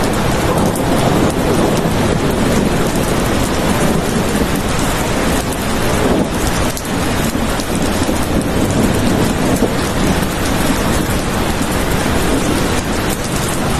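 Heavy, steady rain with a deep rumbling undertone of thunder.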